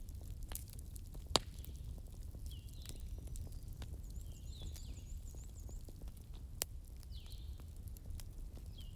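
Fireplace ambience: a wood fire crackling with scattered small clicks and two sharper pops, over a steady low rumble. Short high chirps come and go throughout.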